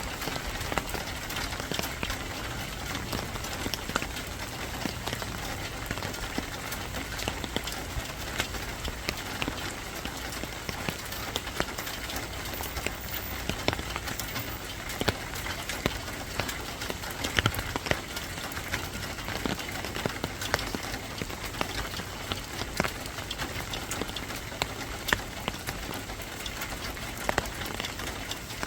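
Steady rainfall: an even hiss of rain with frequent sharp ticks of single drops striking a surface.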